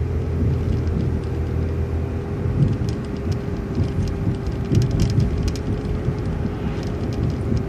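City transit bus driving along: a steady low engine and road rumble with an even whine above it.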